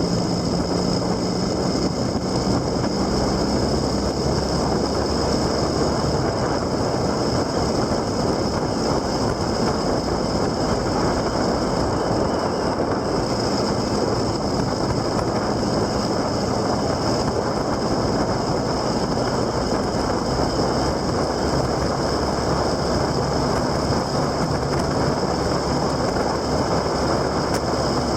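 Motorcycle on the move at a steady speed: a low engine hum under dense, steady wind and road noise.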